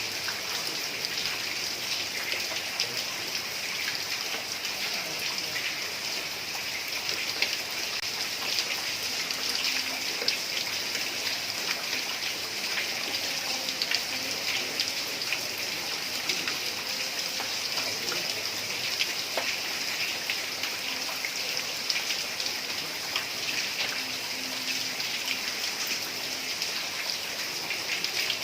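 Heavy rain falling steadily on a tiled roof: a constant hiss full of the quick ticks of individual drops striking the tiles.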